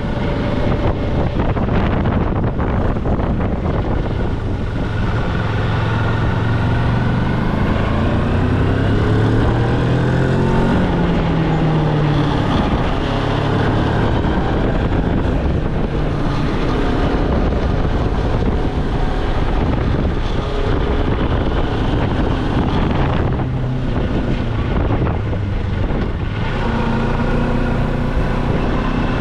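Moto Morini X-Cape motorcycle's twin-cylinder engine running under way, its pitch rising several times in the first half as it accelerates, with wind buffeting the microphone.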